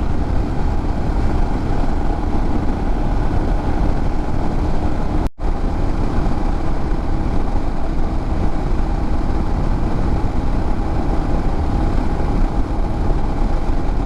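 Royal Enfield Himalayan's single-cylinder engine running steadily at road speed, with road and wind noise. The sound cuts out for a split second about five seconds in.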